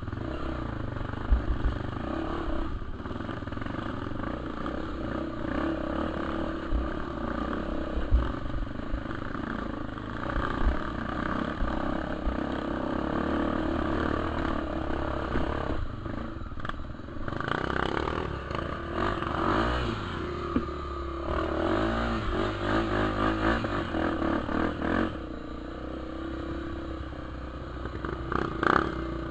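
Dirt bike engine running as the bike is ridden, its engine speed rising and falling, with a few sharp knocks and clatter from the bike.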